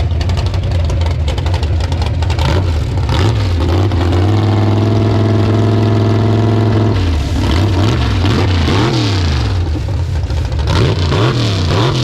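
Mega truck engines running loud. A high rev is held steady for a few seconds in the middle, then the pitch rises and falls as the throttle is worked.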